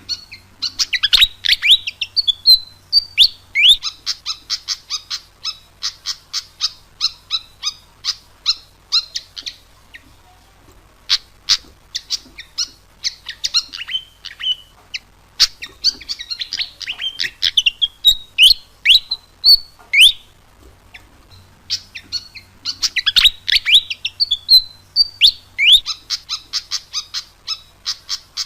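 Fantail (sikatan kipas) singing busily: a rapid string of sharp chirping notes and quick falling whistles, in phrases several seconds long separated by short pauses. This is the full song used as a bird-lure call.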